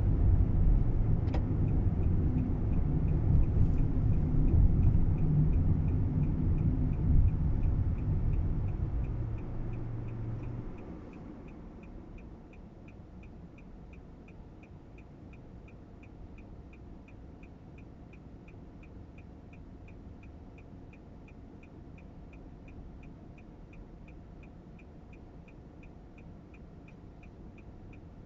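Cabin sound of a Nissan Roox kei car: low road rumble while moving that dies away about ten seconds in as the car comes to a stop, then quiet idling. A regular light ticking, about three ticks a second, runs throughout.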